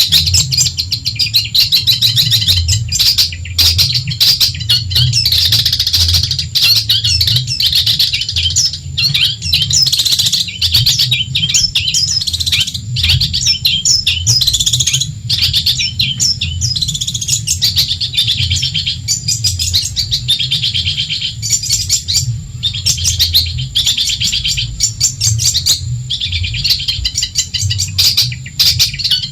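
Long-tailed shrike (cendet) singing without a break: a dense, fast run of high chattering notes and trills, over a steady low hum.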